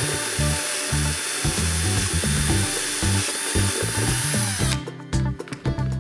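A workshop tool running with a steady, even hiss-like noise that cuts off suddenly near five seconds in, over background music with a steady beat.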